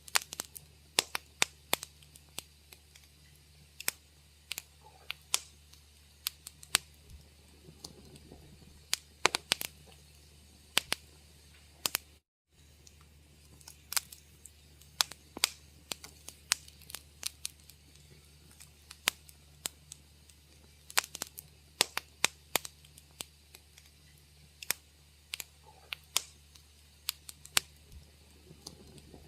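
Wood fire crackling in a fireplace: irregular sharp pops and snaps, sometimes several a second, over a low steady hum. The sound cuts out completely for a split second about twelve seconds in.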